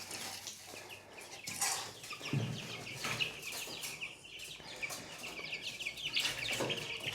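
A flock of four-week-old chicks peeping and chirping continuously, many short high calls overlapping.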